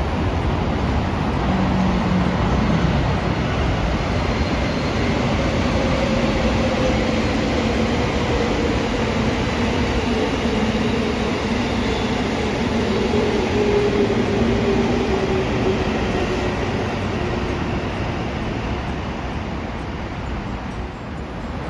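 A train running past with a steady rumble and a faint hum that slides slowly lower through the middle, easing off slightly near the end.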